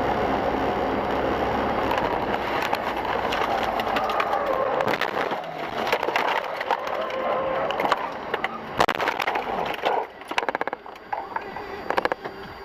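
Steady road and tyre noise, then a car collision: sharp cracking impacts about nine seconds in, followed by a quick run of crunching, clattering knocks.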